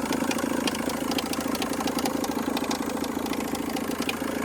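Car engine running at idle with a fast, irregular ticking over its steady note: the strange engine noise being hunted, which the mechanic first suspects is a loose screw but cannot yet identify.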